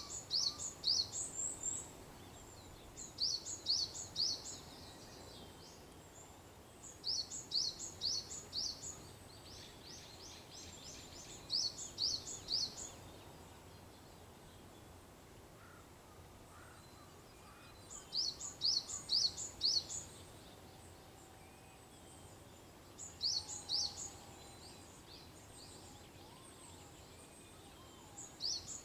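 A small songbird singing short, high phrases of three to five quick notes, repeated seven times with pauses of a few seconds between them, over a faint steady outdoor background.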